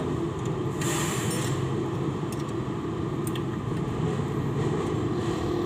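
A steady low rumble, with a short hiss about a second in and a few faint clicks.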